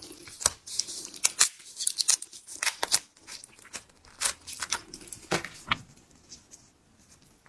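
Langoustine shell cracking and crackling as it is broken open and peeled, a run of sharp snaps that thins out after about six seconds.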